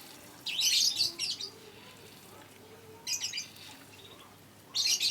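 Lovebird giving shrill chirping calls in three short bouts, a couple of seconds apart.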